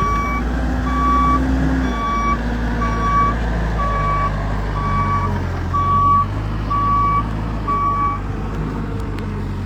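A vehicle's reversing alarm beeping steadily about once a second, nine beeps that stop near the end, over the low steady running of an engine.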